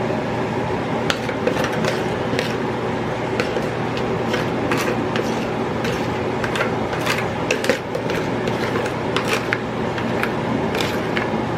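Sauce being poured over chicken wings in a baking pan, with many light, irregular clicks and taps of a bowl and utensil, over a steady hum.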